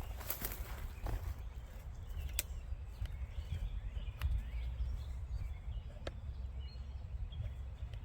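Outdoor ambience: a steady low rumble with a few sharp, scattered clicks and faint bird chirps.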